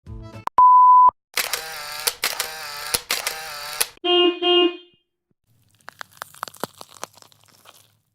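A string of short stock sound effects: first a half-second steady censor bleep, then three bursts of a wavering, pitched sound, two quick pitched notes, and a few seconds of scattered clicks.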